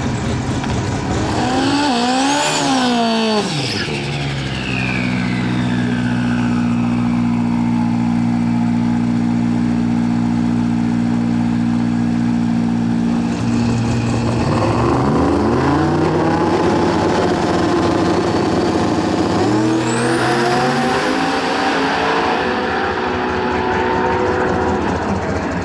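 Drag race car engines. Near the start the revs jump quickly up and down, then an engine holds a steady note for several seconds. After that the engine notes climb in pitch twice as the cars accelerate, and a high whine sweeps upward about twenty seconds in.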